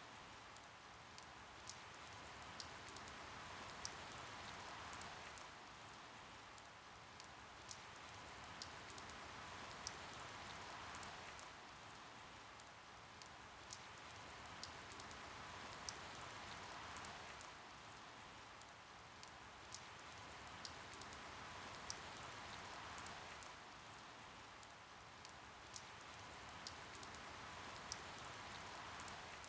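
Soft, steady rain with individual drops ticking sharply here and there. It swells and eases in a slow cycle of about six seconds.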